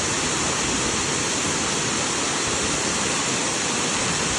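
Piumogna waterfall, water falling and rushing in a loud, steady, unbroken roar.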